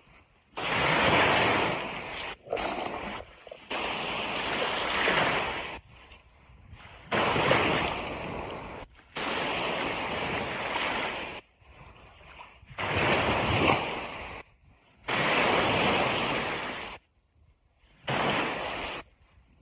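Ocean surf washing on a beach, a steady rush of water that cuts out abruptly into near-silent gaps several times and then comes straight back.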